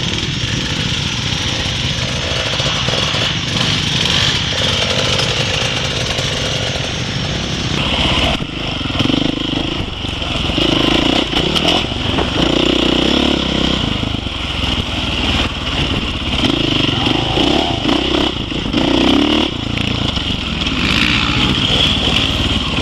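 Dirt bike engine running at low speed with the clutch slipped, its revs rising and falling in short swells through the middle of the stretch, as in slow full-lock turns.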